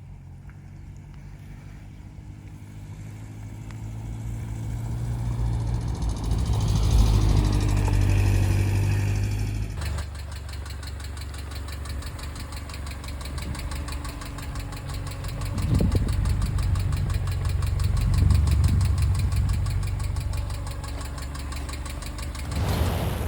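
Subaru EJ flat-four engine running with a fast, even ticking from its hydraulic lifters: the lifter tick of worn or noisy hydraulic lifters. The sound changes abruptly about ten seconds in, and from there the ticking stands out clearly over the engine's hum.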